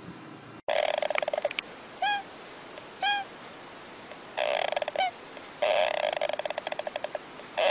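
A bird calling: bursts of rapid, rattling chatter, each a second or so long, broken up by short single calls that bend down in pitch at the end.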